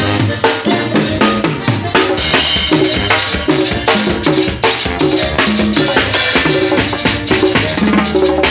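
Instrumental band music: drums and shaker percussion keep a steady, quick beat over a walking bass line, with no singing.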